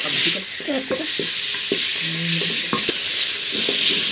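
Chicken pieces sizzling in hot ghee in an aluminium pot while a wooden spoon stirs them, scraping and knocking against the pot.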